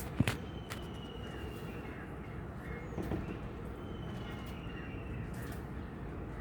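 Steady background noise, with a couple of sharp knocks just after the start and a faint thin high tone twice.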